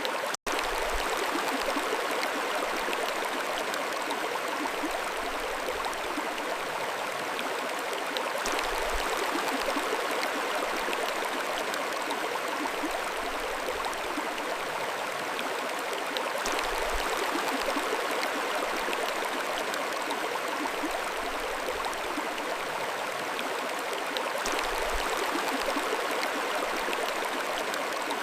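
Mountain stream flowing, a steady even rush of water. The sound cuts out for an instant about half a second in.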